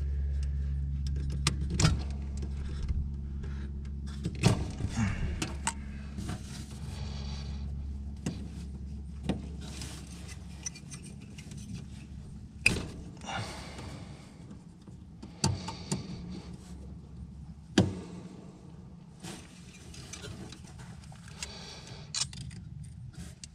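Scattered clicks and light metallic clinks of tools and wiring being handled, over a steady low hum that fades out about ten seconds in.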